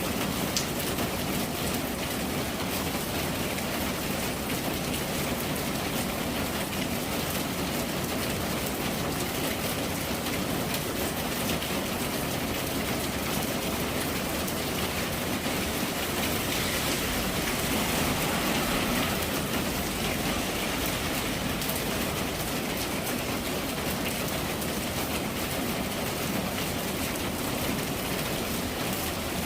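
Steady rain falling, an even hiss of drops that swells slightly a little past the middle.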